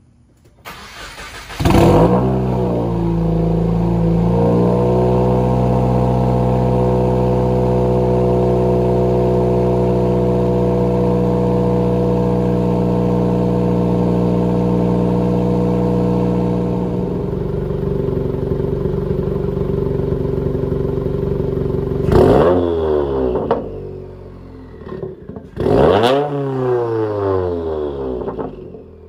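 2020 Subaru WRX's turbocharged 2.0 L flat-four cold-starting through a Grimmspeed header and catted J-pipe and a Remark non-resonated mid-pipe and axle-back: the starter cranks for about a second, the engine catches into a high, steady cold idle that drops to a lower pitch about 17 seconds in, then two quick revs rise and fall near the end.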